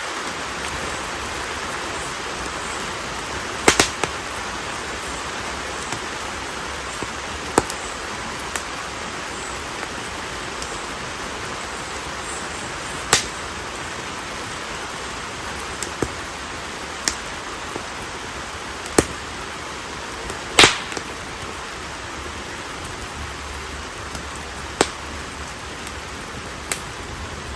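Konara oak firewood burning in an open fire: a steady hiss with irregular sharp crackling pops every few seconds, one louder pop about twenty seconds in.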